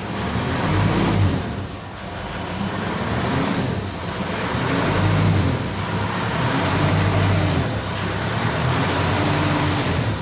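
Mitsubishi Pajero Sport diesel engine running after an oil change, its sound swelling and easing every couple of seconds.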